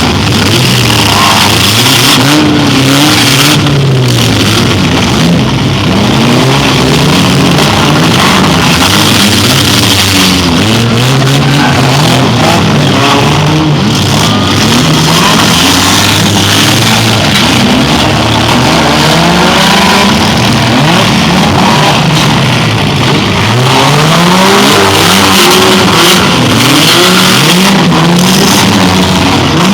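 Several demolition derby cars' engines revving up and down at once, their overlapping pitches rising and falling again and again over steady noise.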